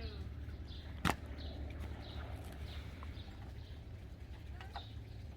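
Birds chirping in short high notes, over a steady low hum, with one sharp knock about a second in.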